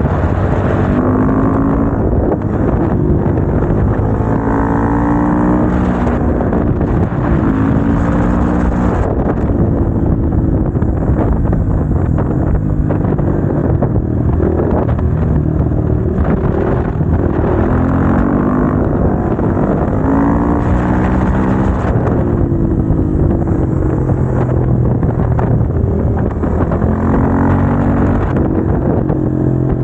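Motorcycle engine on a ride, revving up and easing off again and again as it accelerates and shifts through the gears, over a steady low drone.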